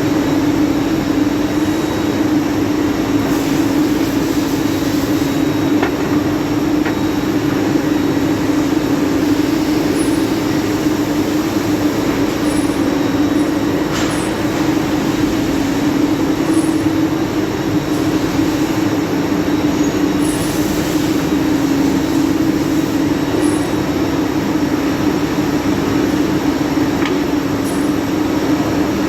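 CNC turning lathe running steadily: a constant machine hum over a wash of noise, with a few faint ticks.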